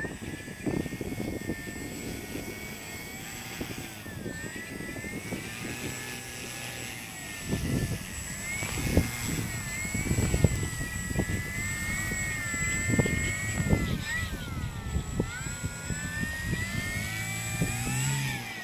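Electric brushless motor and propeller of a Flex Innovations RV-8 radio-control model plane whining, its pitch rising and falling with throttle, while gusty wind buffets the microphone.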